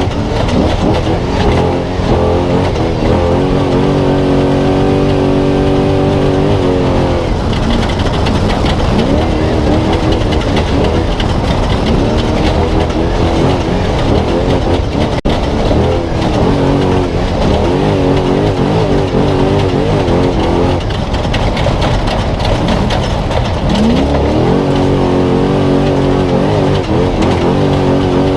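Spec Trophy Truck's V8 engine running hard at race pace, heard onboard over steady road and wind noise; it repeatedly climbs in pitch and then holds steady at high revs for a few seconds at a time.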